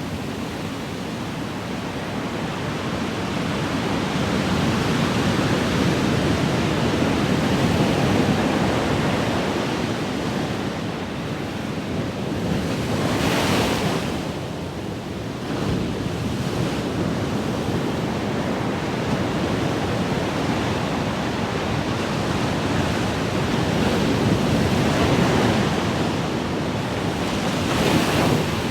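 Ocean waves surging and breaking in a continuous wash that swells and eases, with a brighter hissing break about halfway through and another near the end.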